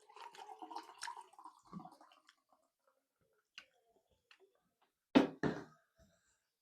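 Close-up eating of thukpa noodle soup: a drawn-out slurp over the first two seconds, small wet chewing clicks, then two short, loud slurping bursts about five seconds in.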